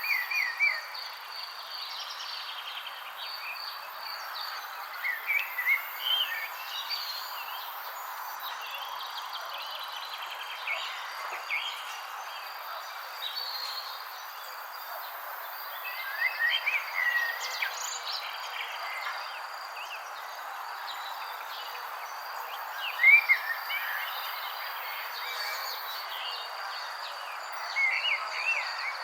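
Birds chirping in short, quick phrases every few seconds over a steady, high insect trill and a constant background hiss.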